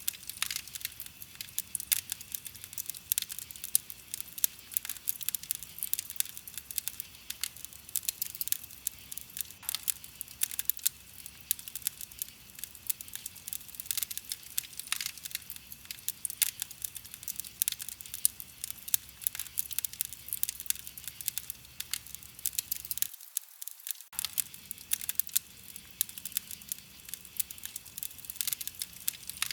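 Wood fire crackling, with a steady stream of small sharp pops and snaps from the burning wood.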